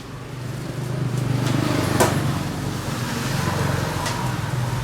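A motor vehicle running with a steady low hum, with a few sharp clicks, the loudest about two seconds in.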